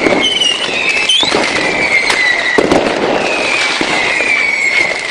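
Fireworks going off at ground level in a display gone wrong: a dense run of bangs and crackling, with several long whistles that fall slowly in pitch.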